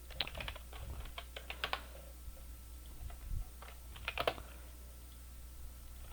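Computer keyboard being typed on in short bursts of clicks, with a pause in the middle, over a steady low hum.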